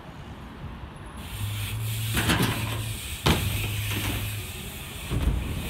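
BMX bike being ridden on a ute, its tyres and frame knocking sharply on the vehicle's metal three times, over a low steady hum.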